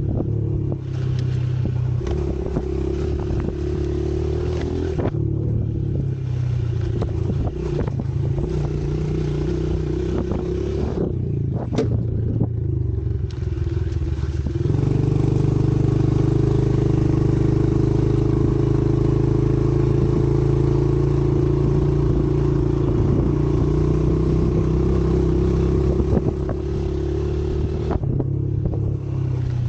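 Pit bike engine running, its pitch stepping up and down as the throttle is worked. It runs louder and steadier for about ten seconds from around the middle.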